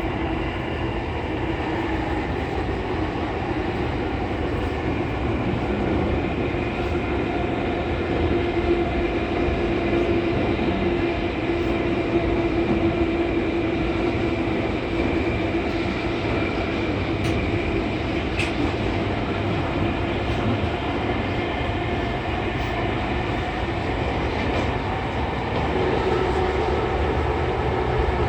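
JR East E231 series 800-number commuter train running through a subway tunnel, heard from inside the car: a steady rumble of wheels on rail with a steady whine of several held tones, and a single click about two-thirds of the way through.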